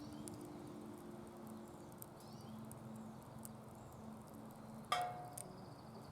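Wood fire crackling in a DOD Mecha-moe Fire fire pit: faint scattered ticks and pops, then one louder sharp snap with a short ringing tail about five seconds in.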